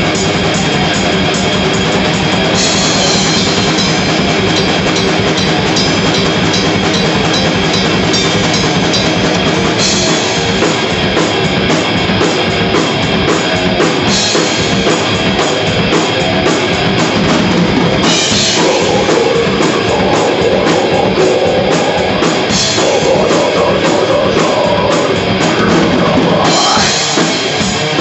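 Death metal band playing loud and live: distorted guitars and bass over fast drumming. Cymbal crashes come in every few seconds.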